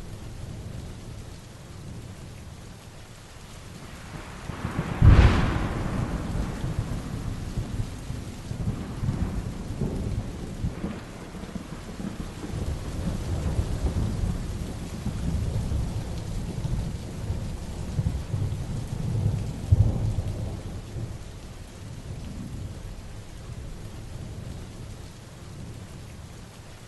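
Heavy rain falling steadily during a thunderstorm. A sharp thunderclap comes about five seconds in and is followed by long low rumbling, with another loud clap later on.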